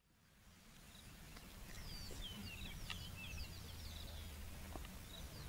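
Several birds calling with many short, quick chirps and whistles over a steady low rumble, fading in over the first second or two.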